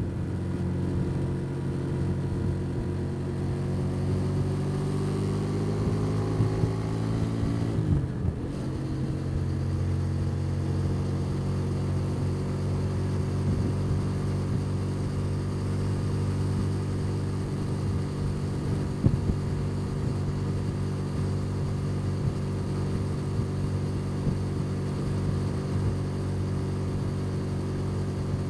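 Motorcycle engine under way, its pitch rising steadily for about eight seconds, then dropping sharply and holding a steady pitch.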